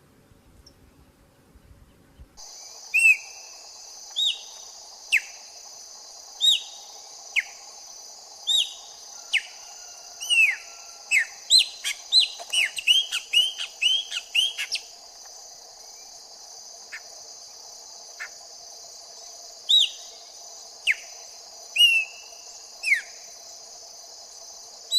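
A songbird giving short, sharp, down-slurred whistled notes, mostly one at a time, with a quick run of them about ten to fifteen seconds in. It starts suddenly after a couple of seconds of near quiet, over a steady high insect drone of crickets or cicadas.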